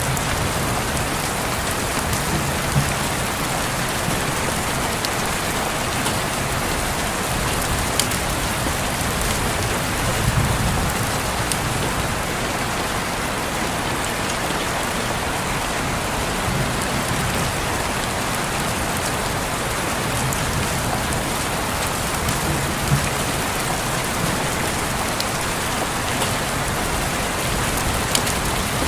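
Steady rain falling on a window, with scattered sharp drop ticks and a few low swells.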